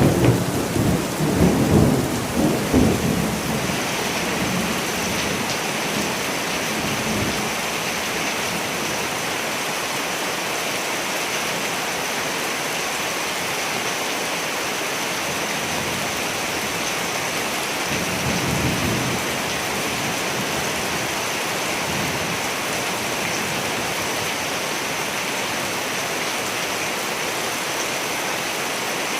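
Steady rain hissing, with a rolling rumble of thunder in the first few seconds and a fainter rumble about two-thirds of the way through.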